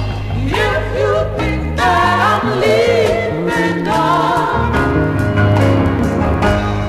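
Black gospel group singing in harmony with band accompaniment and a steady bass line, the voices sliding up into sustained notes.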